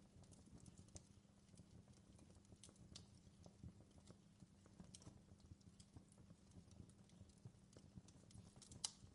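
Wood fire in a fireplace crackling faintly: irregular small pops and snaps over a low steady rumble, with one sharper pop near the end.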